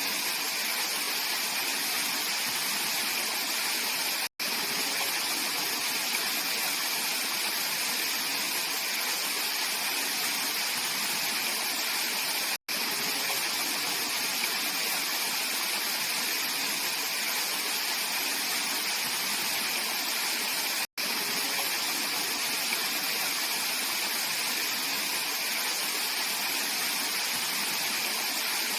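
Mountain valley stream flowing, a steady, even rush of clear water. The sound cuts out for an instant three times, about eight seconds apart.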